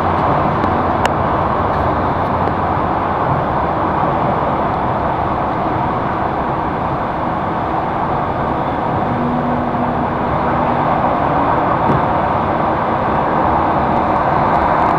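Electric commuter train (elektrichka) running at speed, heard from inside the carriage: a steady loud rumble and wheel-on-rail noise. A faint low hum joins in for about two seconds near the middle.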